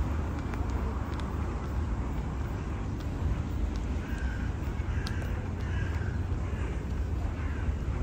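A bird calling repeatedly in the second half, about five short harsh calls in a row, over a steady low outdoor rumble.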